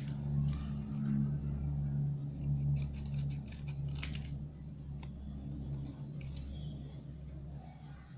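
Scissors snipping through folded paper, a string of short separate cuts, over a steady low hum.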